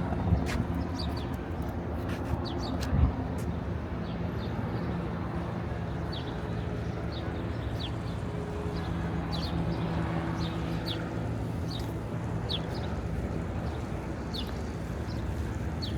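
Steady low engine or traffic hum with small birds chirping over it, short high calls scattered through. A single knock about three seconds in.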